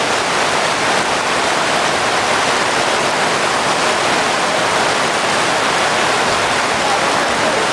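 Heavy rain pouring down in a steady rushing hiss, with running runoff water mixed in.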